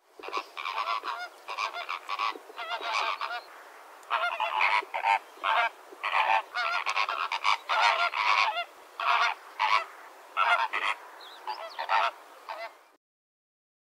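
A flock of flamingos honking, many short nasal goose-like calls overlapping in a steady chatter that cuts off suddenly near the end.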